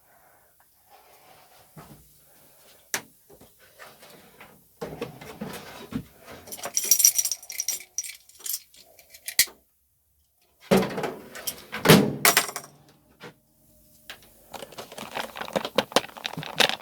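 Irregular rattling and clattering of small metal parts being handled, with many sharp clicks and knocks.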